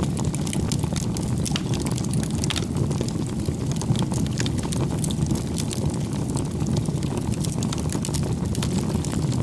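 Wood campfire burning: a steady low rush of flames with frequent sharp crackles and pops.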